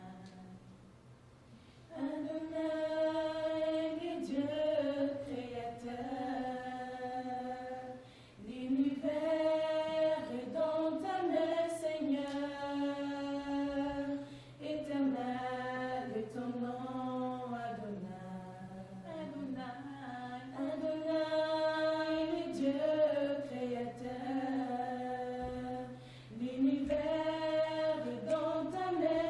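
Slow worship song sung in long held phrases, beginning about two seconds in, with short breaths between phrases, over a steady low hum.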